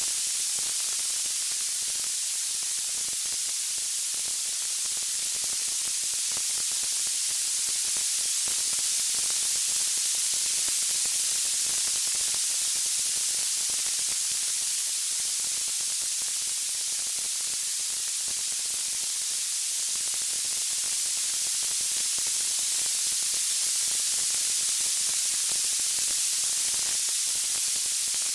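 Steady, even white-noise hiss, strongest in the high pitches, with no music or speech.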